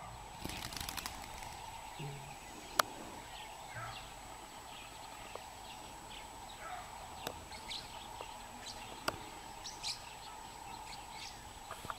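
Scattered short bird chirps and calls over a steady background hum, with a few sharp clicks, the loudest about three seconds in.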